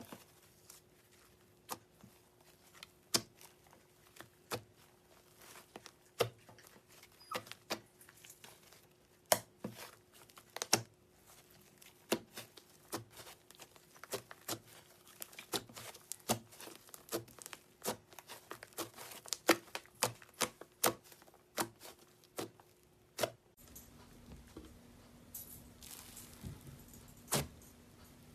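Slime being handled close to the microphone: sharp sticky clicks and pops, a few seconds apart at first, then coming several a second. Softer crackling near the end.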